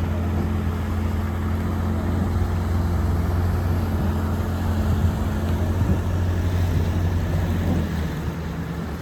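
A boat's engine running steadily, with a low even hum that eases slightly near the end.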